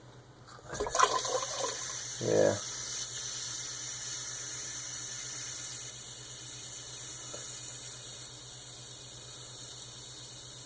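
Water rushing steadily out of a plumbing sediment filter's drain valve into a bucket. It starts with a click about a second in and eases off slightly. A shutoff valve that is not closing fully keeps it flowing.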